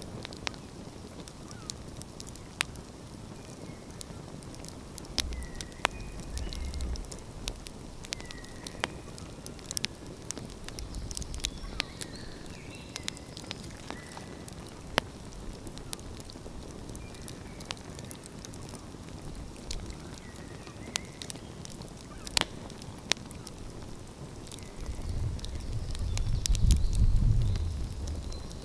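Wood fire burning in the open, crackling with frequent sharp pops over a steady low hiss. Faint bird calls come through now and then, and a low rumble swells near the end.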